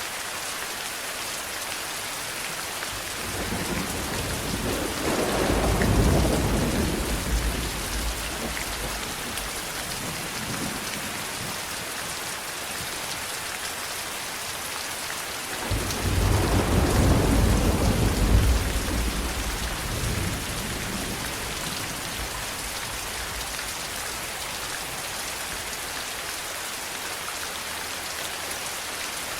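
Steady heavy rain hissing, with two long rolls of thunder: one building slowly from about three seconds in and fading away, the other breaking in more suddenly about halfway through and rumbling for several seconds before dying down.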